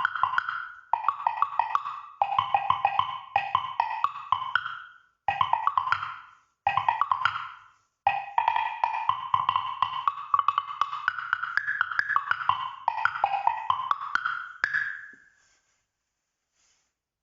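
Ron Vaughn wood blocks struck in fast runs of many quick hits across several pitches, in short phrases with brief gaps, then one longer run that climbs and falls in pitch. The playing stops about fifteen seconds in.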